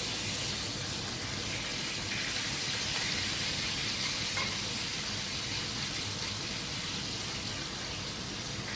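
Food sizzling steadily as it fries in hot oil.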